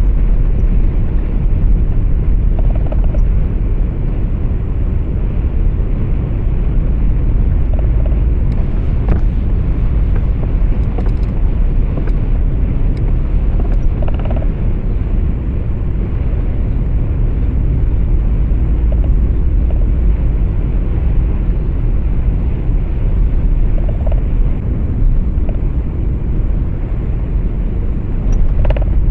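Steady low rumble of a truck cab on the move: engine and tyre road noise, with a few brief faint clicks.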